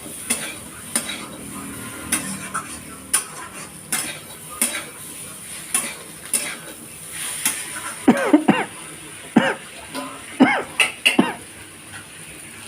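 A utensil stirring in a pan of frying vegetables (raw plantain and potato in oil with chili powder), knocking and scraping against the pan about once or twice a second over a steady sizzle. About eight seconds in, a few short, loud calls that rise and fall in pitch, from a voice or an animal, cut across it.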